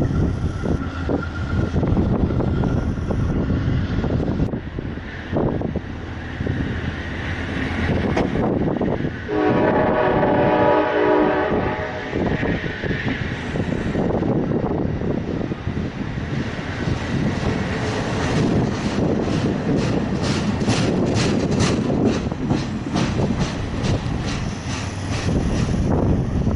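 Amtrak train passing through the station: its horn sounds a chord for about three seconds, roughly nine seconds in, and later the wheels click in a steady run over the rail joints as the cars go by. Strong wind buffets the microphone throughout.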